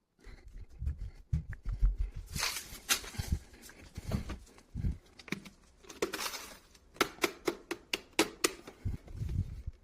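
Hands handling small hard objects: irregular clicks, knocks and rustles, with dull low thumps in the first couple of seconds and again near the end, and a quick run of sharp clicks toward the end.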